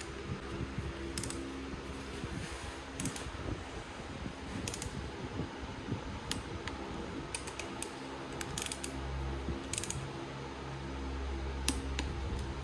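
A steady mechanical hum, like a fan or machine running, with scattered light clicks and clinks of small hard objects being handled.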